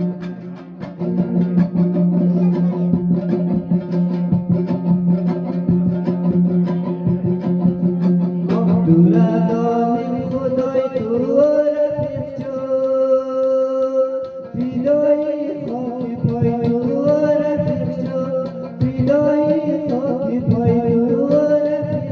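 A song: a plucked string instrument picks quick notes over a steady low drone, then a voice comes in singing about nine seconds in, holding long, bending notes over the accompaniment.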